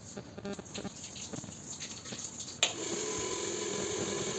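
Hair dryer switched on with a sharp click about two and a half seconds in, then its fan motor running steadily with a rush of air. Before that, only faint scattered handling clicks.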